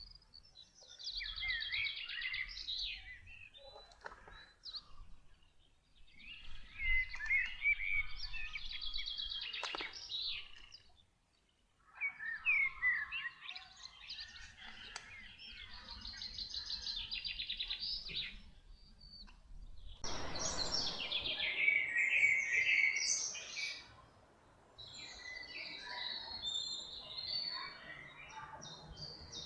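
Forest songbirds singing in repeated phrases of quick chirps and trills, with short pauses between phrases. About two-thirds of the way through, a soft rushing hiss joins the song.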